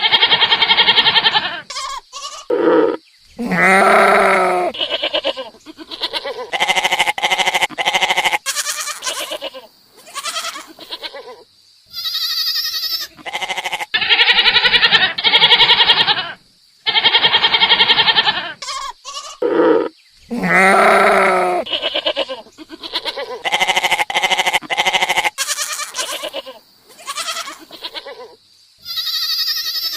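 Goats bleating, a string of calls about a second long each, some deep and some high and thin, with short pauses between them.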